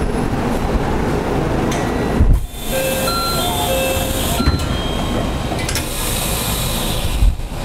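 Running noise of a JR Central 313 series 8000-subseries electric train, heard from inside the passenger car: a steady rumble of the train in motion. It dips briefly about two and a half seconds in, and a few short steady tones sound in the middle.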